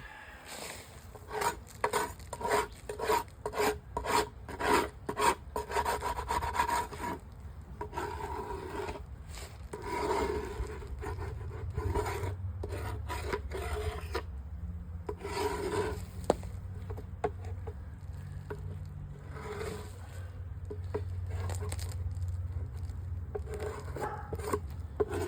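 Wooden beehive bottom board being scraped clean of debris, in quick strokes of about two a second at first, then softer, irregular scraping.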